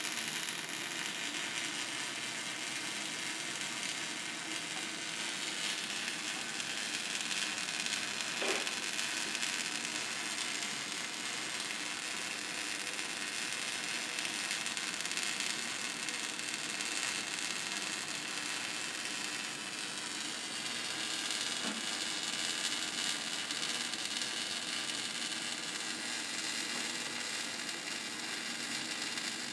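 A steady hiss, strongest in the treble, with a brief squeal about eight and a half seconds in.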